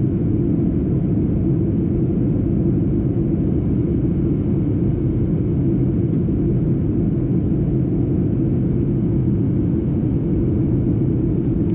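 Steady low rumble of airliner cabin noise, an even drone without change.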